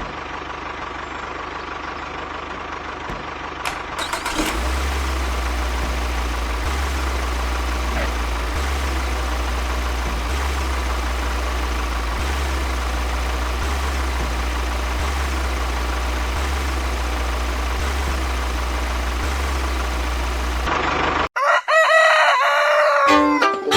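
A steady mechanical drone with a low hum and hiss runs for most of the stretch, then cuts off abruptly. A rooster crows, and fiddle music starts near the end.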